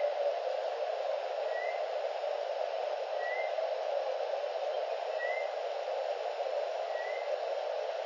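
A bird's short, faint chirp repeated regularly, about once every second and three quarters, over a steady hiss from the nest-cam microphone.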